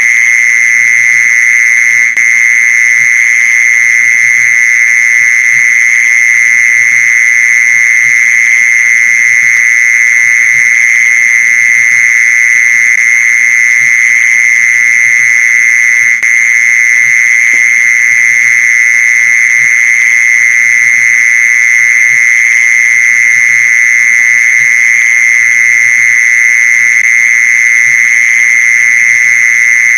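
Mole cricket's continuous trill: one steady, loud, high-pitched buzzing tone that never breaks, the call used to lure mole crickets.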